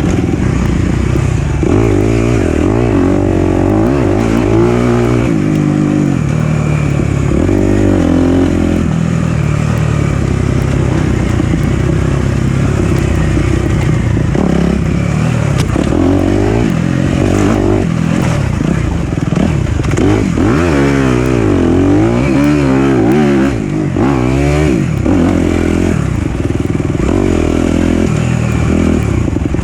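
Four-stroke dirt bike engine being ridden on a trail, its pitch repeatedly rising and falling every second or two as the throttle is opened and closed.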